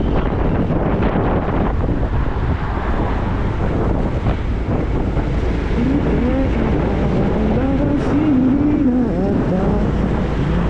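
Motorcycle on the move with heavy wind noise on the microphone. From about six seconds in, the engine note rises and falls with the throttle.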